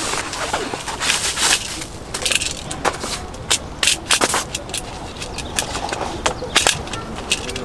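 Irregular clicks, knocks and rustling from a folding camp cot's frame and fabric being handled during assembly.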